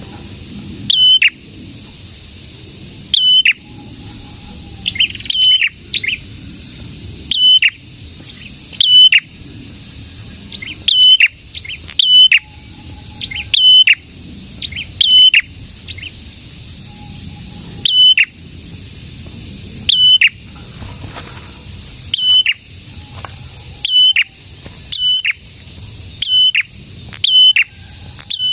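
Prenjak songbird calling again and again: loud, sharp chirps about every second or so, each note sweeping steeply down in pitch.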